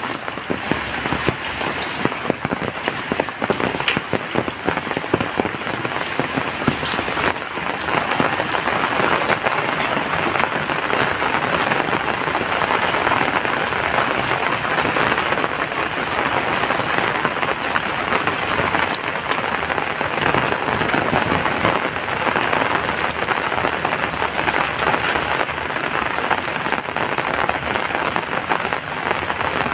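Heavy rain falling steadily: a dense, even hiss full of fine drop ticks, with no let-up.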